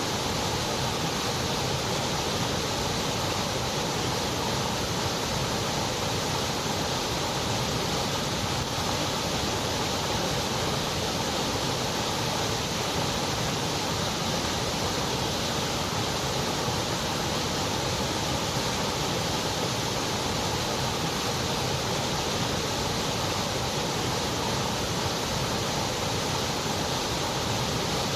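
Steady white noise: an even, unchanging hiss with nothing else in it.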